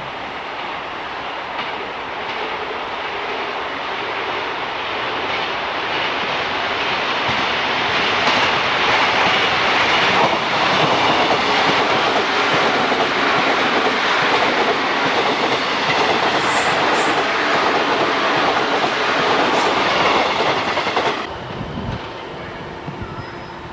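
A Japanese National Railways train running along the track, its wheels sounding on the rails. The sound grows louder over the first several seconds, holds loud, and then cuts off abruptly near the end.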